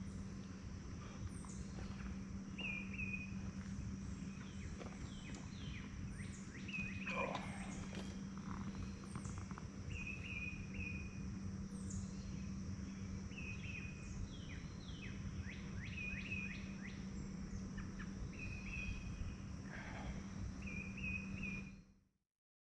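Outdoor ambience of birds chirping, with short repeated calls and quick falling notes, over a steady high insect drone and a low steady hum. It all fades out about a second before the end.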